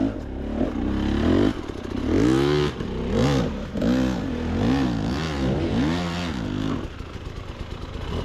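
Two-stroke dirt bike engine, the KTM 300 XC-W, revving up and down about once a second as the throttle is worked over rough trail, with some clatter from the bike. The engine eases off and grows quieter near the end.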